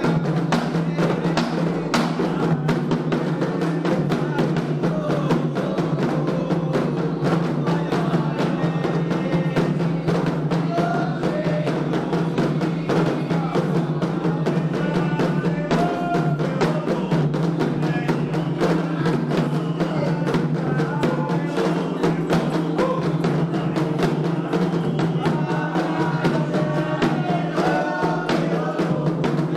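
Candomblé ritual music: fast hand drumming with dense, continuous strokes, and voices singing over it.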